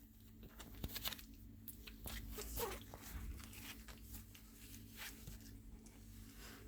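Havanese puppies eating solid food for the first time: irregular small crunching and chewing clicks, over a steady low hum.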